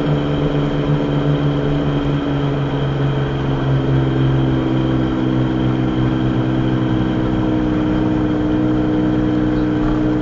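Steady drone of a car's engine and road noise heard from inside the moving car, its pitch easing slightly about three seconds in.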